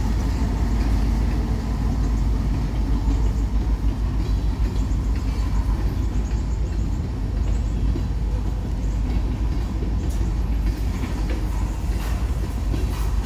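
A freight train passing close by: a diesel locomotive's engine rumbling as it goes by, then covered hopper cars rolling past with a steady low rumble of wheels on rail and a few sharp clicks near the end.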